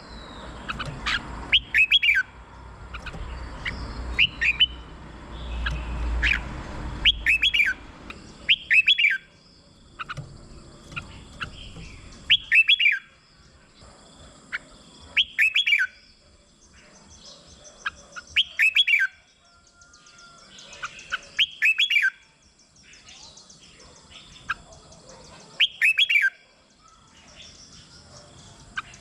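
Red-whiskered bulbul singing loud, short warbling phrases, one every couple of seconds. A low rumble runs under the song for the first several seconds.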